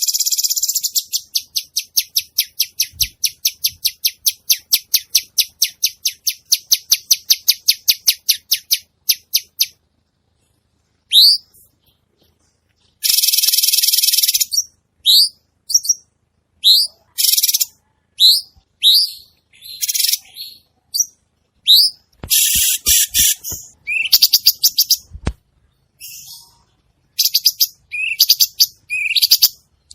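A caged cucak cungkok songbird singing. It starts with a fast run of rapid clicking notes, about four or five a second, lasting roughly ten seconds. It then switches to short upward-sliding whistles mixed with brief harsh chattering phrases, separated by short pauses.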